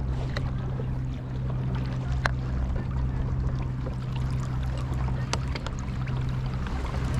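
Fishing kayak sitting on the water with a steady low hum, a wash of water noise and a few small sharp clicks and knocks scattered through.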